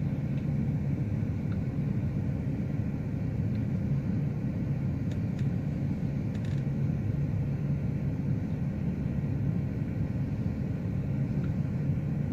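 Steady low rumble of a running vehicle engine, with a few faint clicks near the middle.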